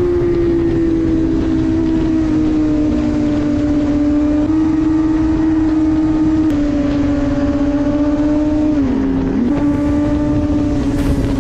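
Sport motorcycle engine running at high revs with a steady, high note that drifts slowly and steps up slightly twice. Near the end the revs briefly drop and then climb back.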